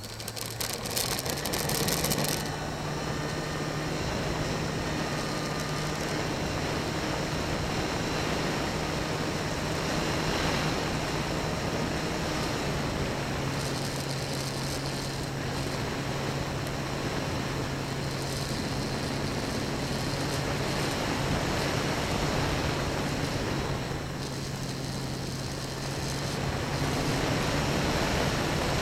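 Motor and propeller of a homemade FPV model plane running steadily in flight, with heavy wind rush over the onboard microphone. The motor's steady hum drops a little in pitch about halfway through and rises again near the end.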